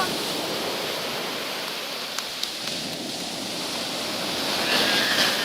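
Surf on a beach: a steady wash of waves that swells near the end as a wave comes in.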